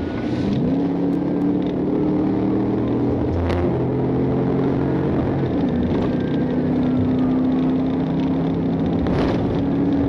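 Hemi V8 of a Dodge Charger patrol car accelerating hard, its pitch climbing and shifting several times as it runs through the gears.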